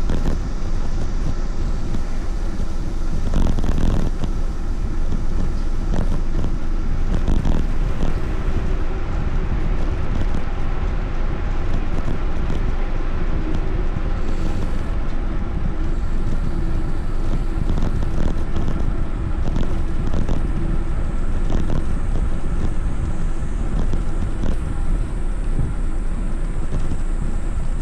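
Steady rush of wind and road noise on the camera microphone while riding, heaviest in the low end, with a few faint clicks and rattles.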